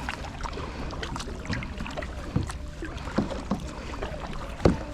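Kayak paddling: paddle blades dipping and splashing in the water, with scattered sharp knocks, the loudest near the end, over a steady low rumble.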